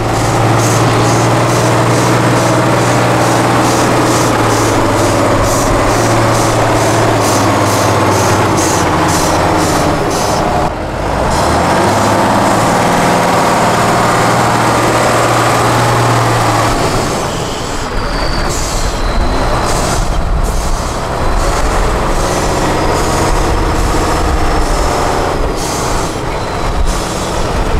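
Tatra 8x8 off-road truck's diesel engine running hard at steady high revs under load, easing off briefly about eleven seconds in, then pulling again; after about seventeen seconds the steady note gives way to rougher, uneven running.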